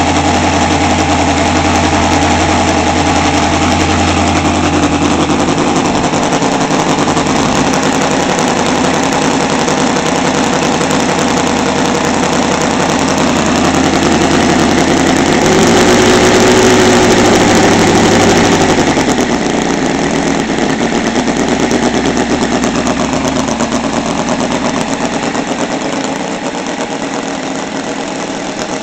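Seidel 7-70 seven-cylinder radial model engine running on methanol fuel during break-in, spinning a 24 x 10 propeller. It runs steadily, revs up briefly about halfway through, then drops back and slows gradually toward the end.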